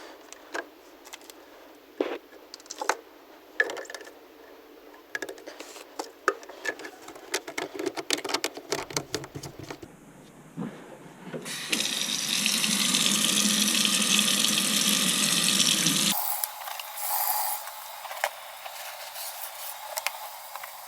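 Scattered clicks and knocks of parts and tools being handled, then about four and a half seconds of steady running water, followed by more light clicks.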